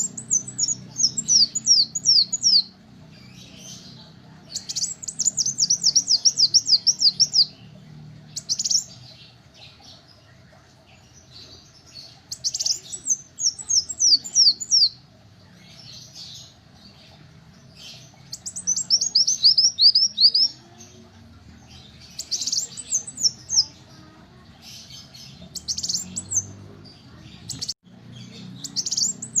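Kolibri wulung sunbird singing: repeated short phrases of quick, high, falling notes, several per phrase, with pauses of a second or more between phrases.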